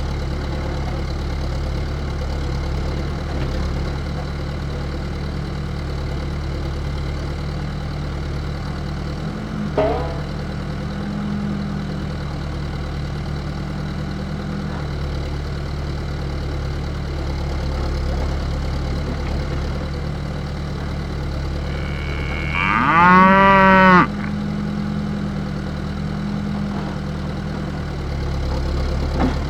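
A tractor-type engine hums steadily the whole time, and near the end a cow moos loudly once for about a second and a half. A brief rising sound is heard about ten seconds in.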